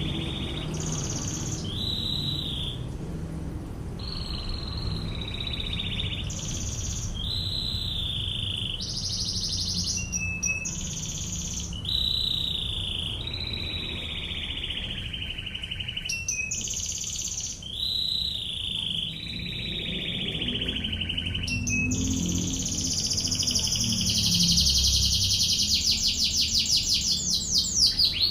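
Domestic canary singing: short whistled phrases, many gliding down in pitch, then about two-thirds of the way in a long, very fast rattling trill, the rapid 'ngebren' burst prized in canary song. A low steady rumble runs underneath.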